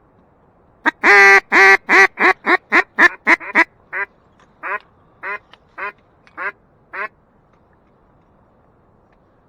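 A descending series of mallard-hen quacks, in the cadence of a hail call. A long, loud first quack about a second in is followed by a quick run of notes, and the later notes grow slower and fainter until they stop about seven seconds in.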